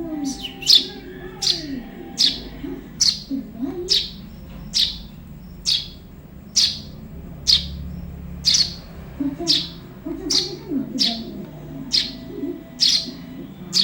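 Juvenile Eurasian tree sparrow calling: short, sharp, downward-sliding chirps repeated steadily about once a second.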